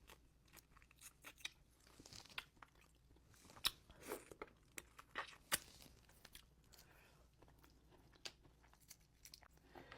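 A person eating a seafood boil close to the microphone: chewing and biting, with sharp crunches and clicks scattered throughout, the loudest about four and five and a half seconds in.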